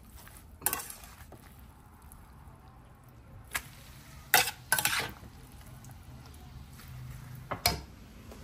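Grated gourd being spooned into a wok of melted butter: a faint frying sizzle with sharp knocks and scrapes of a spoon against the glass dish and the pan, the loudest two about halfway through and another near the end.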